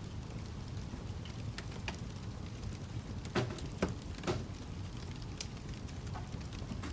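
Wood fire crackling: a steady low rumble with scattered sharp pops and snaps, three louder ones close together a little past the middle.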